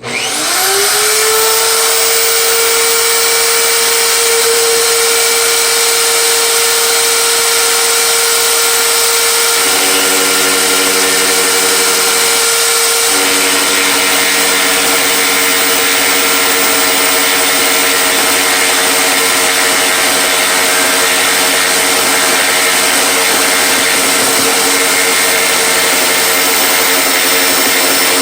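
Electric power tool motor switched on, spinning up with a rising whine within the first second, then running steadily at full speed, its tone shifting a little about ten seconds in.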